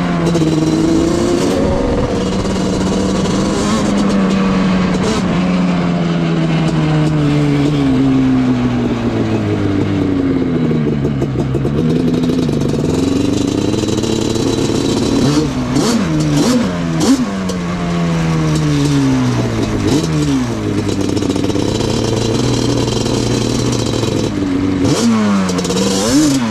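Yamaha Banshee's 350 cc twin-cylinder two-stroke engine running under way, its pitch rising and falling as it is revved and eased off, with quicker throttle blips about two-thirds of the way through and near the end.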